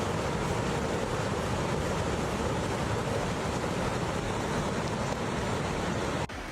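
Floodwater rushing: a steady, loud noise of fast-moving water that cuts off suddenly near the end.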